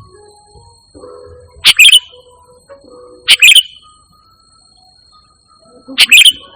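Sooty-headed bulbul (kutilang) calling: three loud, short bubbly phrases of two or three quick notes each, spaced about one and a half to two and a half seconds apart. Faint music plays underneath.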